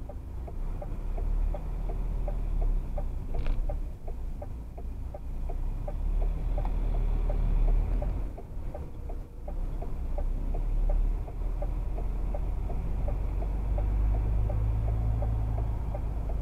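Vehicle engine rumbling in the cab while creeping in slow traffic, with a steady ticking about three times a second. A brief sharp sound comes about three and a half seconds in.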